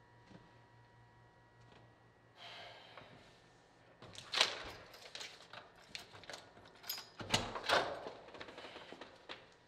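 Paper crinkling and crackling as an envelope stuck to a door is pulled off, then handle and lock clicks and a dull thud as the door is opened, about three-quarters of the way in.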